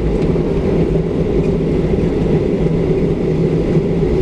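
Steady cabin noise of a Boeing 737-700 taxiing, its CFM56-7B engines at idle: a constant low rumble with a steady hum.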